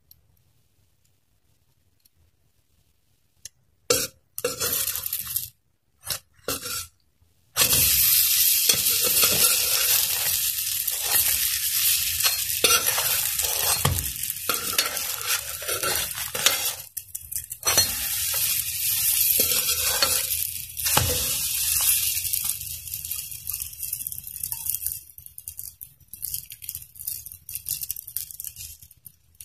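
Spanish bread dough sizzling as it pan-fries in an aluminium wok, with a metal spatula scraping and knocking against the pan as the pieces are turned. It starts in short bursts about four seconds in, runs steadily from about seven seconds, and thins out near the end.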